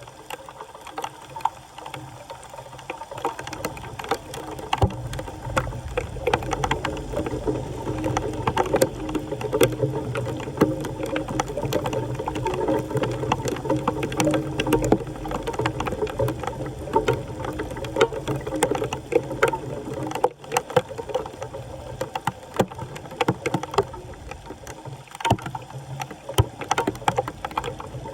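Floodwater sloshing and splashing, with frequent short clicks and knocks throughout.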